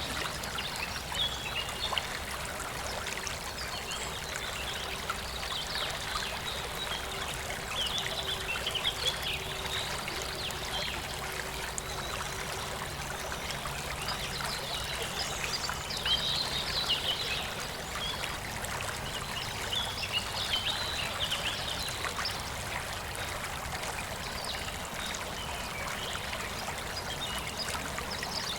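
Water flowing steadily in a stream, with birds chirping now and then.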